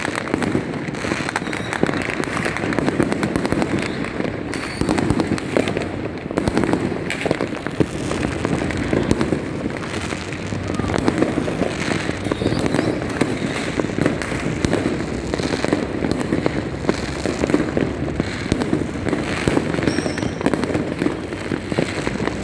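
Many fireworks and firecrackers going off at once in a dense, unbroken run of bangs and crackling.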